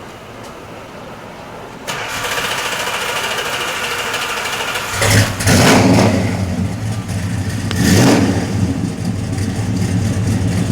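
1969 Plymouth Road Runner's 383 big-block V8 (bored 30 over) being started: the starter cranks for about three seconds, the engine catches about five seconds in and is blipped twice, then settles into a steady, throaty idle.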